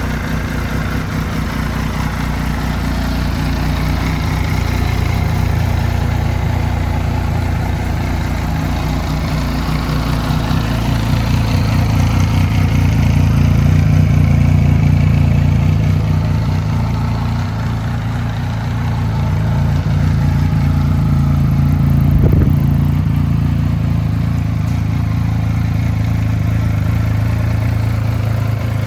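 Benelli TNT 1130's inline three-cylinder engine idling steadily, with a couple of gentle rises in revs partway through.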